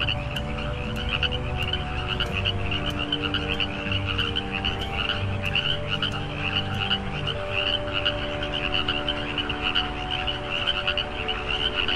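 A chorus of frogs croaking: many rapid pulsed calls overlapping without a break.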